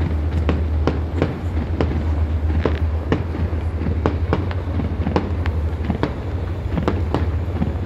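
Fireworks bursting in quick, irregular succession, about two or three sharp bangs a second, over a steady low hum.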